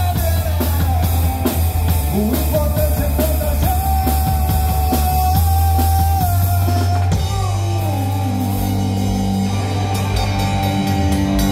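Live rock band playing: electric guitar over bass and drum kit. Up to about seven seconds in the drums keep time under a held guitar note, then the drumming thins out and a held chord rings on.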